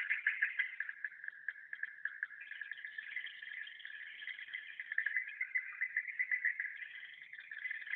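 Swiftlet call track for the inside of a swiftlet house, the 'tahan' (holding) sound: a continuous, dense twittering of rapid high chirps.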